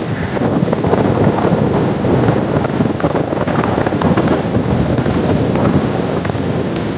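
Heavy wind buffeting the microphone on a moving motorcycle at road speed, a loud, steady, rumbling rush that drowns out the engine.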